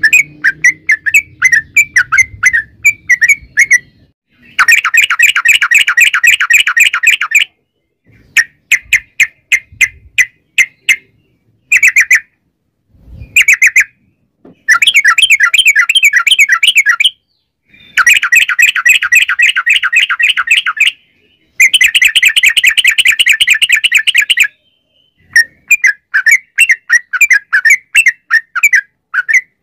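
Yellow-vented bulbul (trucukan) singing: long rapid rolling chatter runs ('ropel') of a few seconds each, alternating with looser strings of separate chirping notes, with short breaks between phrases.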